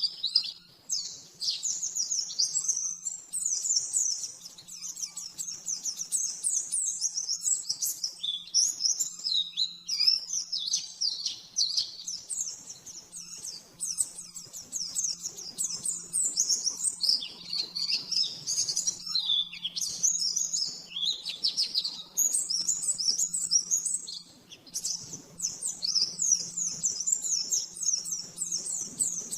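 Pleci (white-eye) singing its fast 'nembak' song: an almost unbroken stream of high, rapid twittering chirps, phrase after phrase, over a faint steady low hum.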